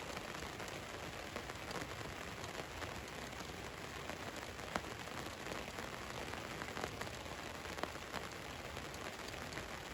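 Steady rain falling on a van's roof: an even hiss with many scattered drop taps, a few sharper ones standing out about five and eight seconds in.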